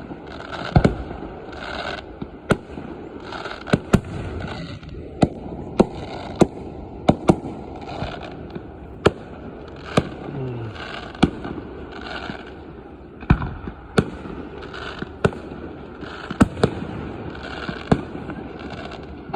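Fireworks display: aerial shells bursting in a long run of sharp bangs, roughly one to two a second.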